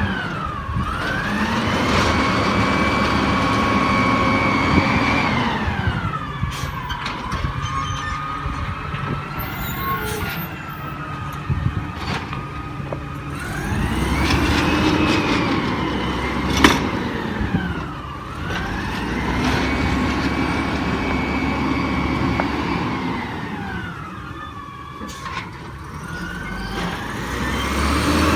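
Garbage truck's engine and hydraulic pump rising to a high whine, holding there for several seconds, then dropping back, over and over as the packer runs through its cycles. The pitch climbs and falls about four times.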